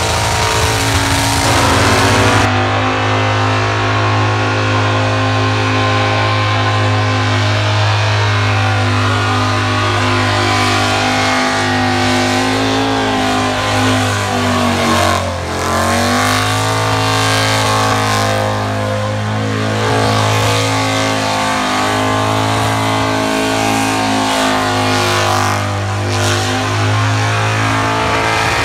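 Burnout car's engine held at high, steady revs with the rear tyres spinning in thick smoke. About halfway through the revs drop briefly and climb back up.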